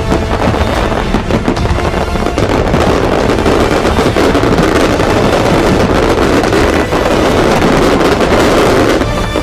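Fireworks going off in a dense, rapid-fire barrage of bangs and crackles that blur into one continuous rattle, growing a little louder and denser about three seconds in.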